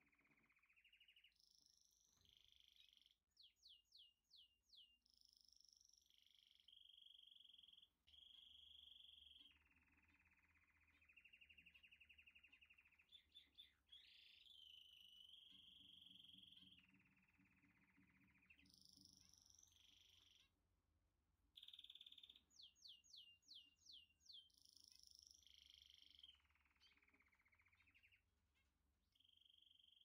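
Faint songbird singing: phrases of clear whistled notes, fast trills and quick sets of descending slurs, with short pauses between phrases.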